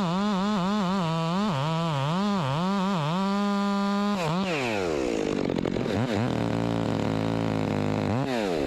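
Chainsaw revving up and down in quick pulses as it cuts, held at full throttle for about a second, then dropping back to idle with two short throttle blips near the end as the cut is finished.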